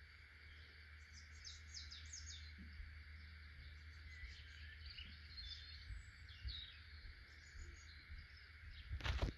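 Faint birds chirping now and then over a steady outdoor hiss and low rumble, with a brief loud thump near the end.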